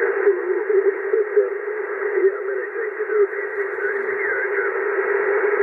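ICOM IC-M802 marine SSB radio receiver putting out steady static and noise through its speaker, thin and narrow like a telephone line, with a strong low buzzing band, the background noise the set is being tested for.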